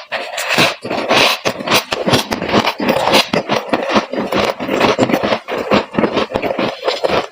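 Freezer frost being chewed: dense, irregular crunching.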